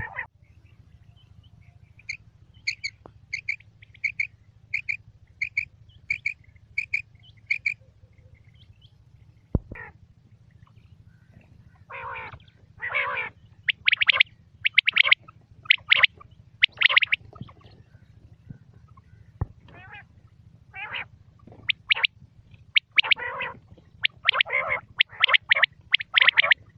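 Quail calling: a run of short, evenly spaced high notes, about two a second. From about twelve seconds in come louder, harsher calls in quick groups.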